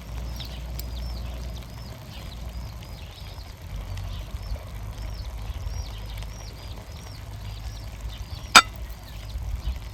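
A bird calling with short high chirps, about two or three a second, over a low wind rumble on the microphone; a single sharp click sounds near the end.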